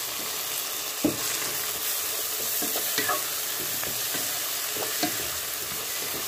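Chopped tomato sizzling in hot oil with fried onion in a kadai, stirred with a wooden spatula that knocks and scrapes against the pan a few times, the sharpest knock about a second in.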